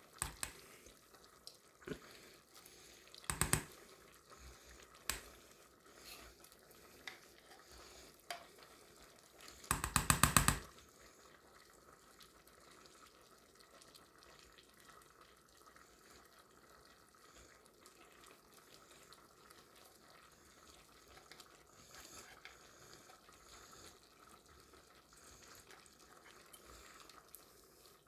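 Kitchen handling sounds as condensed cream of chicken soup goes into a pot of boiling egg noodles: a few scattered knocks, then a quick rattle of rapid clinks about ten seconds in, the loudest part. After that only a faint steady simmer with light stirring.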